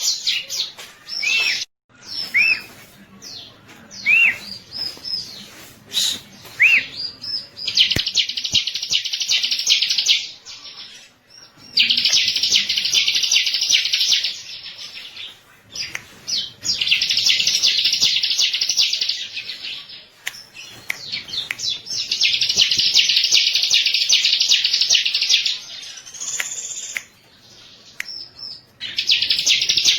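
Bar-winged prinia (ciblek) singing: loud, rapid chattering trills of two to three seconds, repeated about every four to five seconds. The first few seconds hold single short chirps instead.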